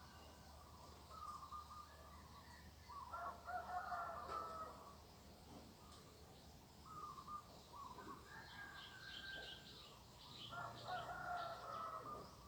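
Roosters crowing faintly, several long crows one after another and overlapping, with small birds chirping in quick high notes through the second half.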